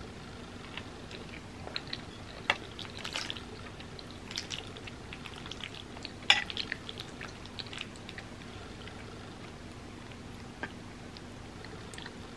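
Close-miked wet mouth sounds of chewing creamy, tofu-sauced macaroni, with scattered sharp clicks and smacks, the loudest about six seconds in.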